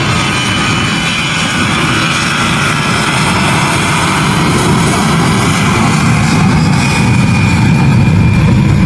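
Airliner's engines running loud and steady, with faint whining tones over the roar, growing a little louder near the end.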